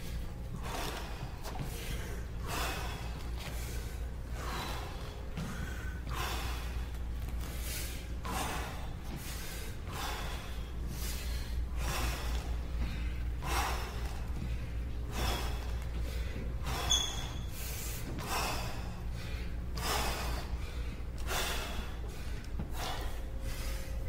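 A man breathing hard from the exertion of heavy lunges: quick, forceful breaths, a little more than one a second, over a steady low hum.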